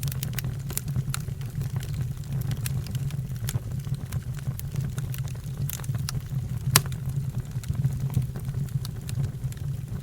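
Fire burning with a steady low roar and scattered sharp crackles, and one louder pop about two-thirds of the way through.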